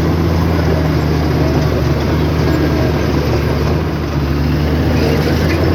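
Heavy diesel engine of earthmoving machinery running steadily with a low hum.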